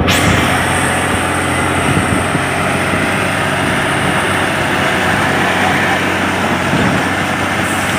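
Truck engine running under a steady hiss, with voices in the background.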